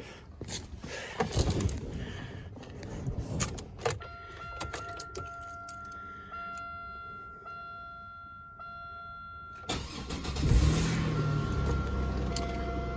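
Clicks and knocks of a car door and keys, then a steady electronic chime with short regular breaks, then about ten seconds in the 2001 Buick Regal's 3.8-litre V6 is cranked, catches and settles into a steady idle.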